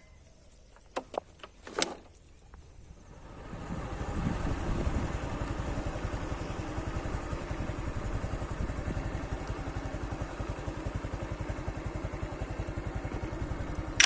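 A small engine running with a fast, even putter. It builds up about three seconds in, holds steady, then cuts off suddenly. A few sharp clicks come before it.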